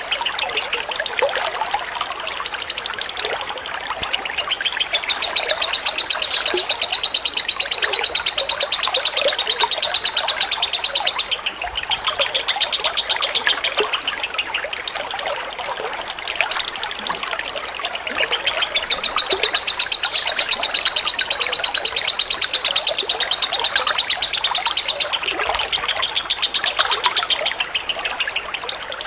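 Lovebird singing a long, fast, unbroken chattering trill, the 'ngekek' song. Water trickles underneath.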